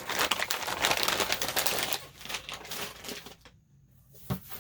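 Rapid crackling and rustling of paper and plastic craft packaging being handled and opened, loudest in the first two seconds, then dying down, with one soft knock near the end.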